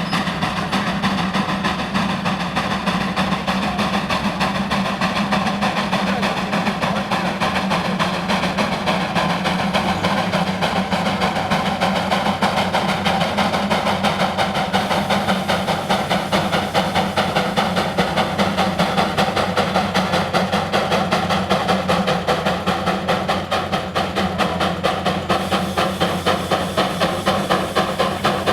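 Steam traction engine working under load on the pulling track, its exhaust chuffing in a steady, rapid rhythm with steam hissing.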